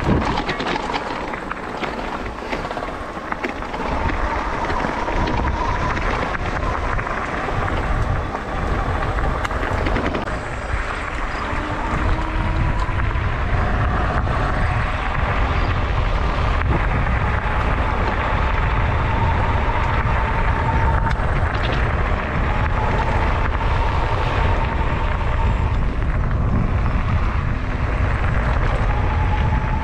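E-bike being ridden: wind buffeting the microphone with steady road noise, over a faint wavering whine from the electric motor. It grows louder about four seconds in and stays steady.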